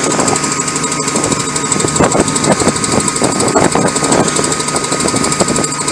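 Caterpillar C9 diesel engine running at idle, with a steady hum and frequent irregular sharp knocks.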